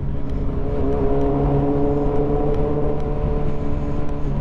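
Motorcycle engine running steadily while riding in traffic, over wind rumble. About a second in, a higher engine tone comes in and holds, then drops back near the end.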